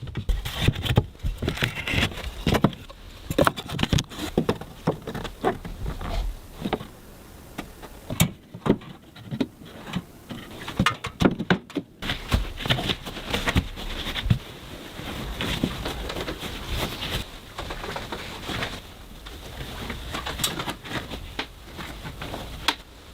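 Carpentry on wooden cladding boards: irregular knocks, taps and scrapes as the boards are handled and fastened, with a few short breaks.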